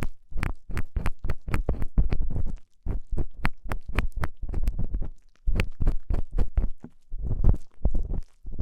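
Ear-cleaning ASMR: an ear pick or tweezers scraping in a microphone's ear, a rapid, irregular run of sharp crackling clicks over low, muffled rubbing thumps, with short breaks about a third and two thirds of the way through.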